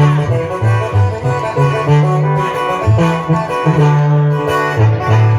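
A live band plays the instrumental passage of a corrido between two sung lines. A bass line steps between low notes under plucked strings.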